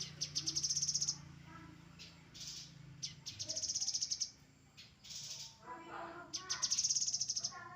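Grey-headed canary-flycatcher song: three rapid, high trills about a second long each, with lower chattering notes between them.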